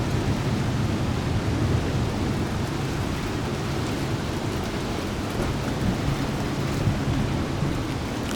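Steady rain during a thunderstorm, with a low continuous rumble of thunder underneath and no sharp claps.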